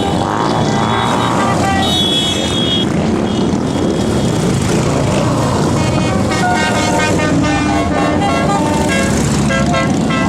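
Many motorcycle engines running together, with horn toots over them.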